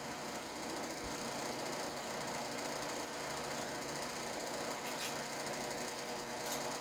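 Steady whir of a noisy electric shop fan running, with a couple of faint light clicks near the end.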